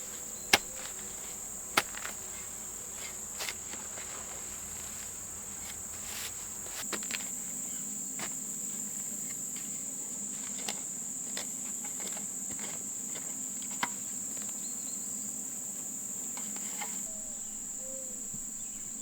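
Steady high-pitched insect chirring, with a few scattered sharp clicks and knocks, the loudest about half a second in. A low hum joins about seven seconds in and fades near the end.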